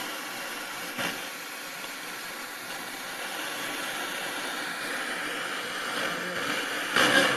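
Radio static from a Yamaha T-1 analog FM tuner: a steady hiss between stations, with a click about a second in. Near the end a station's music comes back in.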